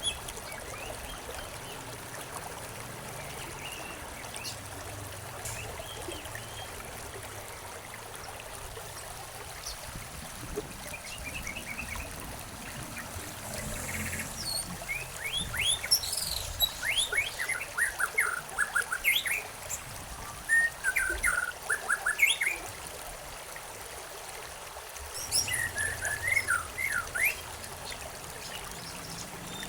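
Songbirds chirping in quick runs of short falling notes over a steady trickle of running water. A few chirps in the first half, the birds busiest from about halfway through, then a pause and one more run near the end.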